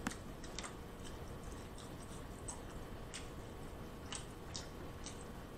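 Faint chewing of string beans, with scattered soft mouth clicks.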